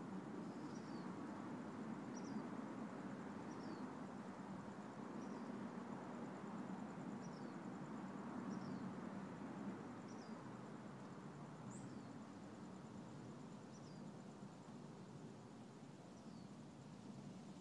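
Faint outdoor ambience: a steady low wash of distant background noise, with a small bird giving a short, high, falling chirp every second or two. A thin, steady high tone sits faintly underneath.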